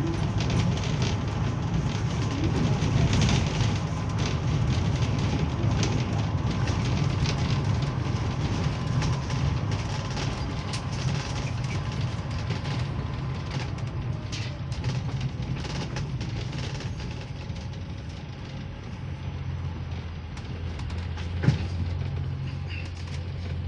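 Steady low rumble of a moving vehicle heard from inside it, easing slightly near the end, with a single sharp knock close to the end.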